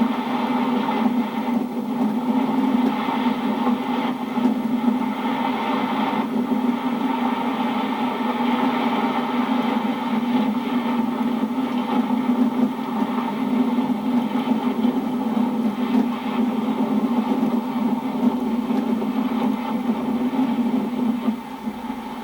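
Steady drone of a vehicle's engine and road noise while driving, holding a constant low pitch throughout.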